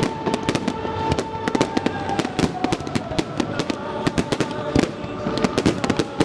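Fireworks going off in a rapid, irregular barrage, several sharp bangs and crackles a second. Christmas music plays over loudspeakers underneath, with a long held note.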